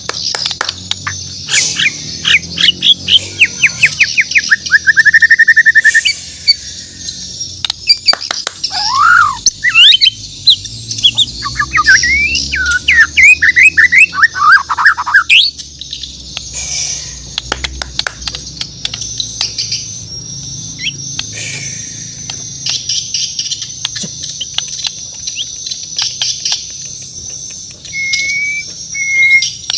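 White-rumped shama (murai batu Borneo) singing loud, varied whistled phrases, sweeping notes and rapid trills, including a fast buzzing trill about five seconds in. After about fifteen seconds the song gives way to scattered quieter clicks and chirps, with two short whistles near the end, over a steady high background chirping.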